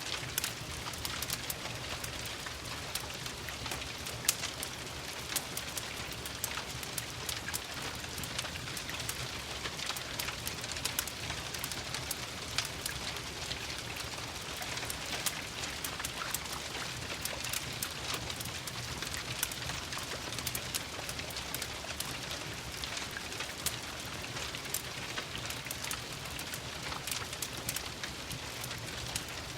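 Steady rain mixed with a crackling wood fire: a constant hiss of rain with many small sharp pops and ticks throughout, one louder pop about four seconds in, over a low rumble.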